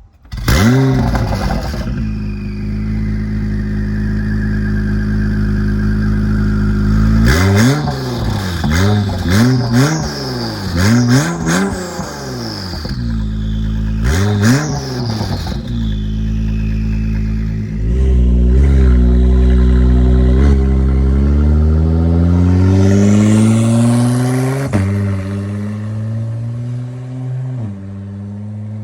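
Acura NSX twin-turbo V6 through catless downpipes and a titanium muffler-delete exhaust. It starts up loudly about half a second in and idles. It is then blipped several times in quick succession, blipped again a little later, and near the end is revved slowly up and dropped back to idle.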